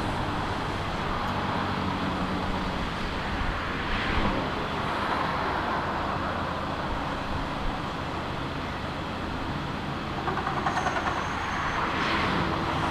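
Steady vehicle engine noise, a continuous rumble and hiss, with a brief fast rattle about ten seconds in.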